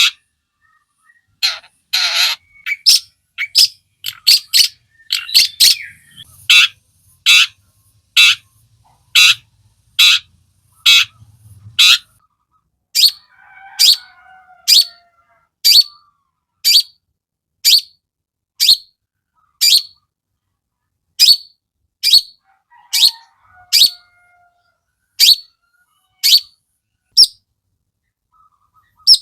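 Long-tailed shrike (cendet) calling: a quick flurry of short, sharp notes, then a steady series of single sharp notes about one a second, with faint softer twittering between them.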